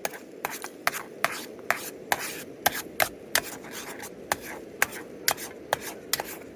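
Knife chopping on a cutting board: a run of sharp, uneven taps, about two to three a second.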